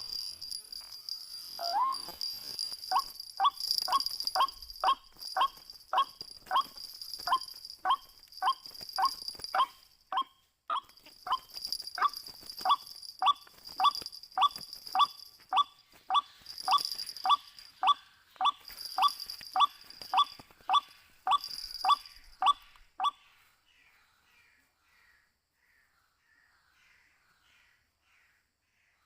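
White-breasted waterhen calling: a short, harsh, falling note repeated about twice a second for some twenty seconds, then stopping. A steady high-pitched buzz runs behind it and breaks off briefly a few times.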